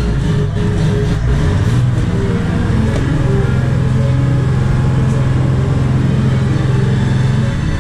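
Boat engines running steadily, their low hum rising a step about a second in and then holding.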